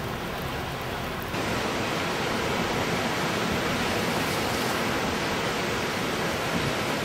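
Strong wind, a steady rushing noise that jumps louder about a second in and holds there.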